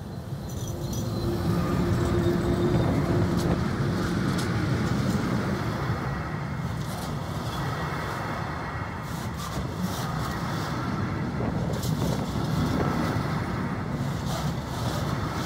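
Train running past on the line: a steady rumble of wheels on rail that swells over the first couple of seconds and then holds, with sharp clacks scattered through it as the wheels cross rail joints.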